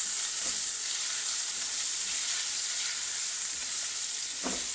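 Sliced red onions sizzling steadily in a hot frying pan while being stirred with a spatula.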